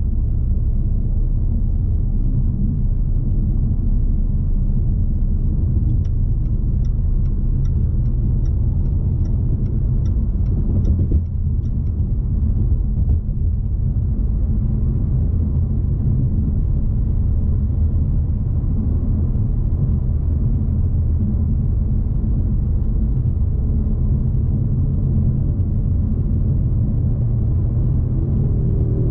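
Steady low in-cabin drone of a 2020 Jaguar XE P300's turbocharged 2.0-litre four-cylinder and road noise while cruising. About six seconds in, a faint turn-signal ticking runs for about six seconds at roughly two ticks a second, with a small thump near the middle.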